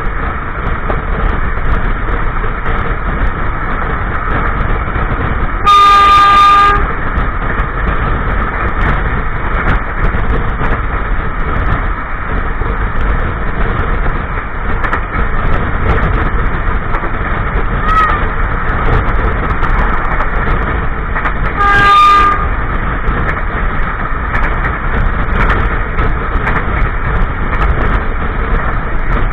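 A passenger train running at speed, with a loud steady rumble and rush of wheels on track heard from inside a carriage toilet. The locomotive horn blows twice, a blast of about a second some six seconds in and a shorter one about 22 seconds in.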